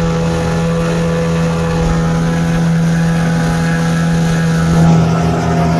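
Motorboat engine running steadily under way, a constant loud drone that swells briefly about five seconds in.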